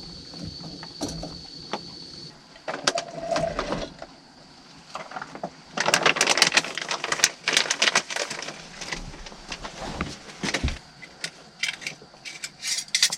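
Camping gear handled up close: an irregular run of clicks, rattles and rustling, busiest in the second half.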